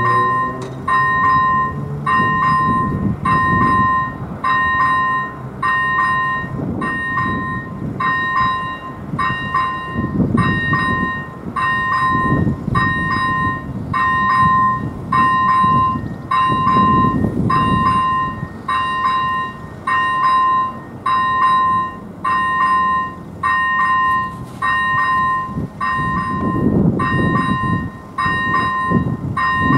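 AŽD 97 level-crossing warning signal's first-generation electronic bell sounding its alarm: a loud, steady beep about once a second, warning that a train is approaching. A low rumble rises and fades underneath at times.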